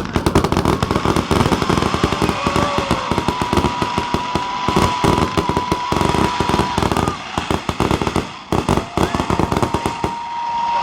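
Fireworks going off in rapid succession, a dense run of bangs and crackles that thins out a little near the end. A steady high tone is heard for several seconds in the middle and again near the end.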